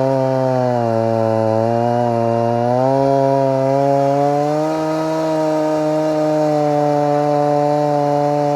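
Stihl MS 290 two-stroke chainsaw running at high revs, its pitch sagging about a second in and climbing back between about three and five seconds as the chain loads and frees up, typical of cutting through dry, dead wood.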